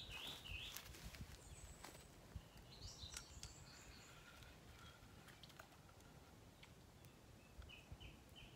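Faint bird calls over a quiet outdoor background: a few chirps at the start, a cluster of higher notes in the middle, and a run of short, evenly repeated notes near the end.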